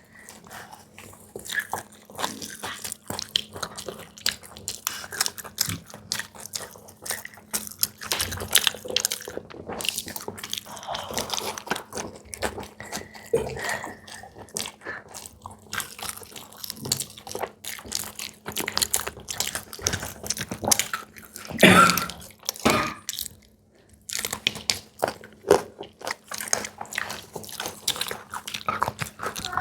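Close-up crunching, biting and chewing of crisp fried snacks such as samosas, a steady run of small crackles and mouth sounds, with a louder cluster of crunches about two-thirds of the way through.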